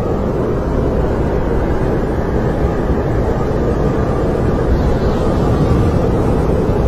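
Snowstorm wind blowing steadily, a dense low rushing noise with no breaks.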